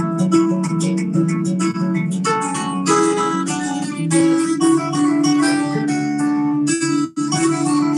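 Guitar playing, notes plucked and strummed in quick succession, with a brief break about seven seconds in.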